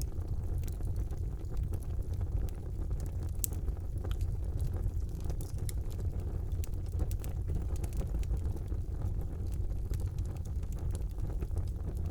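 Wood fire burning in a fireplace: a steady low rumble of flames with frequent small crackles and pops scattered irregularly, one pop a little louder about three and a half seconds in.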